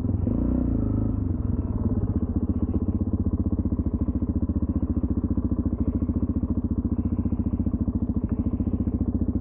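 Suzuki DR-Z400SM's single-cylinder four-stroke engine, fitted with a K&N intake, running at low revs with a fast, even pulse as the bike rolls slowly.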